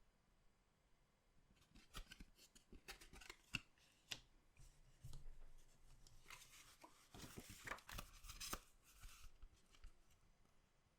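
Trading-card pack being handled and opened: a run of light clicks and taps, then a few seconds of crinkling wrapper about halfway through.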